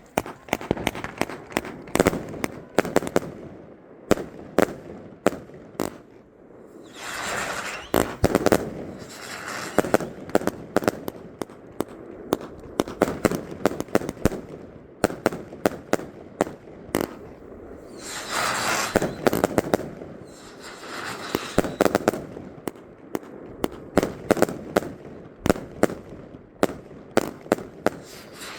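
Consumer fireworks going off: a rapid, irregular string of sharp bangs, with two longer hissing, crackling stretches, about seven and eighteen seconds in.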